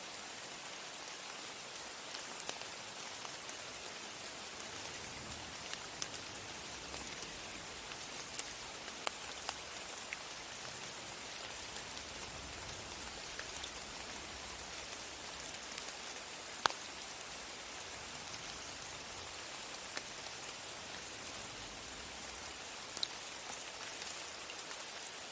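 Rain falling, a steady hiss with scattered sharp drips, a few of them louder.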